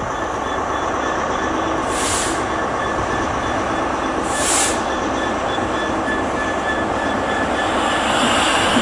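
Class 66 diesel-electric freight locomotive running slowly through the station with its engine droning steadily, the rail noise of the train mixed in. Two short, high hissing bursts come about two and four and a half seconds in.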